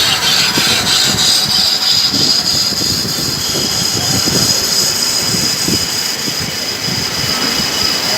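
A machine running steadily, a constant high whine over a rough, uneven rumble.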